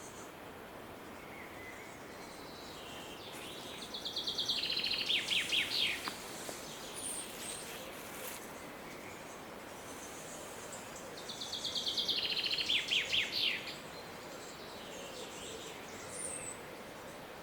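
A songbird sings the same song twice, about seven seconds apart. Each song lasts about two seconds: a fast trill that breaks into a run of falling notes. Under it is a steady hiss of forest ambience, with faint high calls from other birds.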